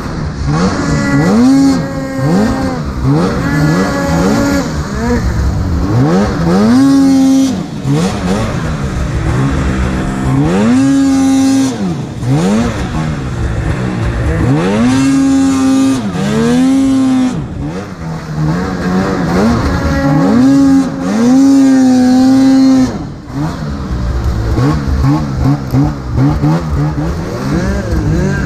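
Arctic Cat snowmobile engine revving hard over and over. Each rev climbs quickly, holds at a high pitch for a moment, then falls away.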